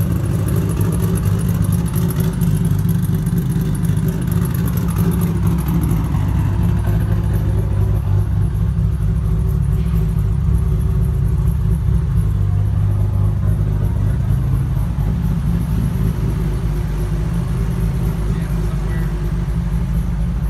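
Mitsubishi 3000GT VR4's built 3.0-litre V6, fitted with a Precision PTE 7675 CEA single turbo, idling steadily with a deep, even exhaust note. The engine is freshly built and not yet tuned.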